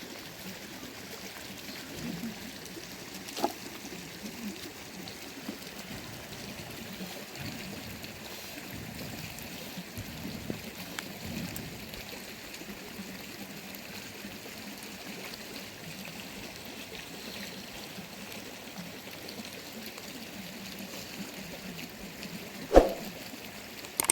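Steady trickling running water, with a light knock a few seconds in and a sharper knock near the end.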